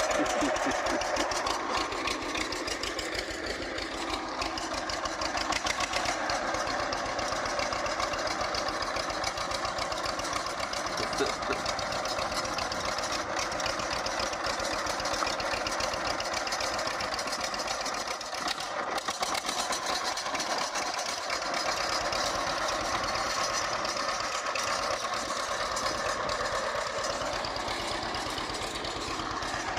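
An engine running steadily with a fast, even firing beat.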